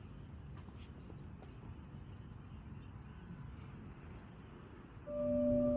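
Faint low background rumble with a few light clicks. About five seconds in, a steady bell-like music tone begins, loud and sustained.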